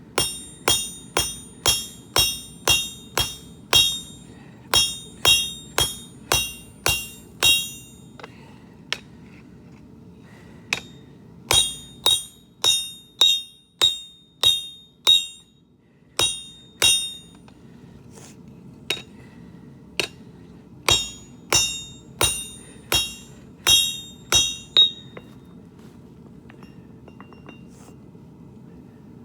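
Hand hammer striking hot steel on an anvil while forging a garden hoe: sharp ringing blows at about two a second, in three runs with short pauses between, over a steady low hum.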